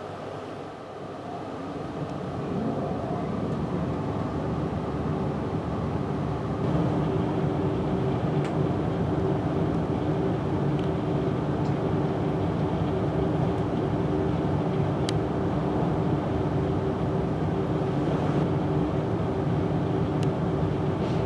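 Passenger train running on the rails, heard from inside a carriage: a steady rumble that grows louder over the first several seconds as the train picks up speed, then holds, with a steady electrical hum.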